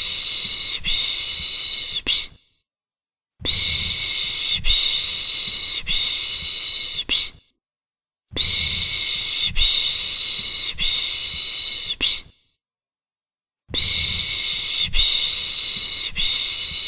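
A person shushing ('shhh', Turkish 'piş piş') to soothe a baby, in long steady shushes of about four seconds each, with about a second of silence between them. There are four shushes.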